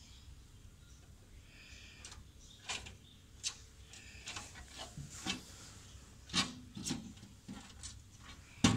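Woodpecker pecking at a mirror: irregular single taps and knocks, a few with a scraping rub, loudest near the end.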